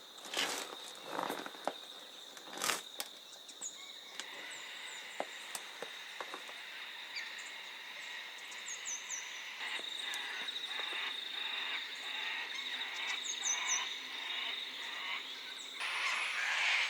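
Australian bush ambience: a steady high insect drone with a chorus of small calls, and quick high chirps in threes, twice. A few scuffing steps near the start.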